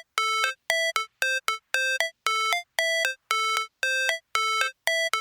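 A synthesized electronic tone pattern like a ringtone: short pitched beeps repeating about twice a second, each a longer note followed by a brief higher blip.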